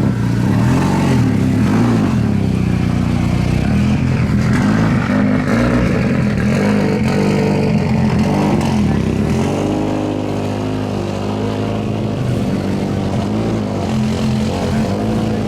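Rally car engines running, their revs rising and falling several times.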